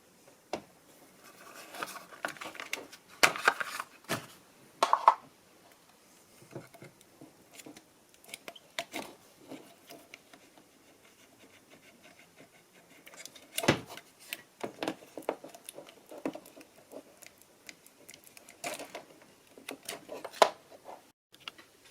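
Irregular clicks, knocks and rustling of hands and tools handling the plastic recirculation pump assembly of a washing machine, with a few sharper knocks standing out.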